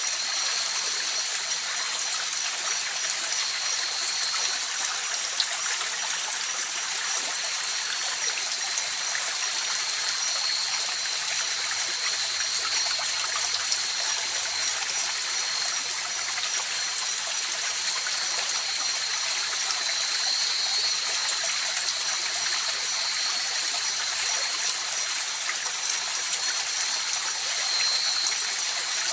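A river flowing over rocks, a steady rushing and babbling of water with no breaks.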